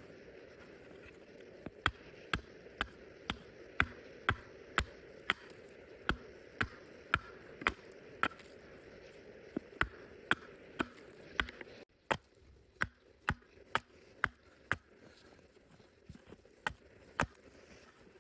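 Sharp knocks repeated roughly twice a second, over a steady background hiss that drops away suddenly about twelve seconds in while the knocks go on.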